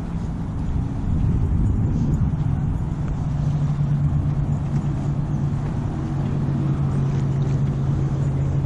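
An engine running steadily, a low hum over a rumbling background, settling into an even pitch about a second and a half in.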